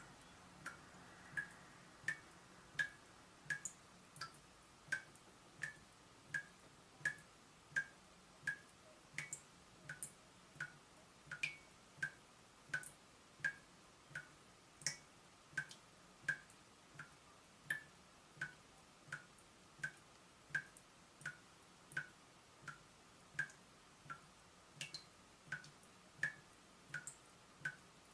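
Water dripping steadily from a leaking tap: single drops in an even rhythm, about three every two seconds, each a short, bright plink.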